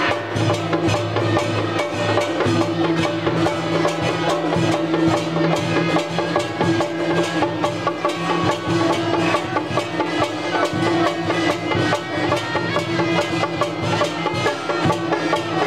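Traditional Taiwanese temple-procession music: drums and other percussion beating rapidly and continuously over steady held tones.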